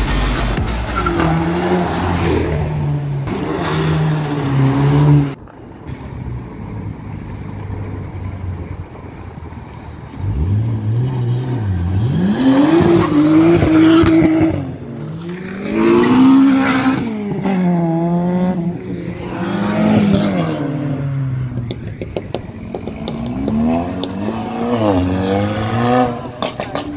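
Cars pulling away one after another, engines revving hard and rising in pitch as they accelerate past, with several separate revs from about ten seconds in. A loud dense sound fills the first five seconds and cuts off suddenly.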